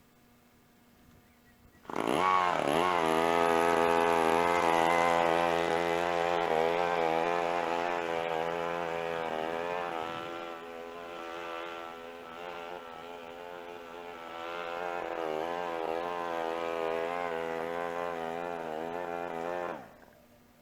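Gas string trimmer running, its engine speed rising and falling continually as it cuts. It cuts in abruptly about two seconds in, eases off for a few seconds in the middle, and stops abruptly near the end.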